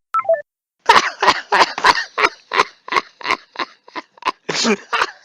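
A person's rapid run of short, breathy vocal bursts, about four a second, with one longer voiced burst near the end.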